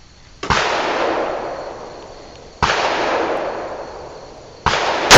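Single rifle shots from an AK-pattern rifle in 7.62×39mm, about two seconds apart, each followed by a long fading echo; a louder shot comes right at the end.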